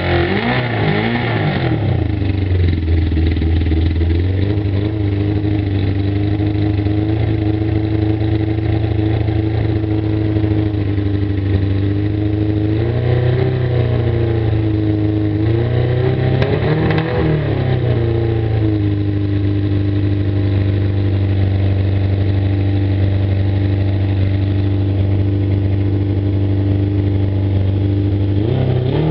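Suzuki GSX-R750 inline-four motorcycle engine running on its first startup with the choke jammed on, idling very rough. The throttle is blipped briefly near the start, twice about halfway through and once more at the end, the pitch rising and falling back each time.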